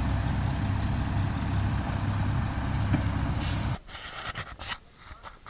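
Heavy diesel engine running steadily with a deep rumble, then a short sharp hiss of air, and the engine sound cuts off suddenly. A few faint clicks and knocks follow.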